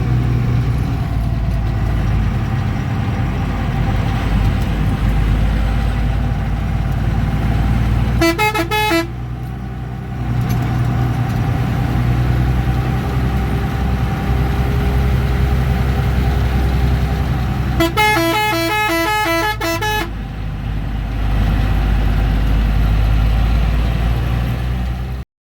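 Bus engine running steadily with a deep drone, heard from inside the driver's cabin. The horn sounds twice in rapid pulsing notes: briefly about eight seconds in, then for about two seconds near eighteen seconds. The sound cuts off suddenly just before the end.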